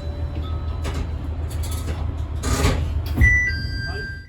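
Diesel railcar running slowly with a steady low rumble and several short clanks. A brief high tone steps down in pitch a little after three seconds in.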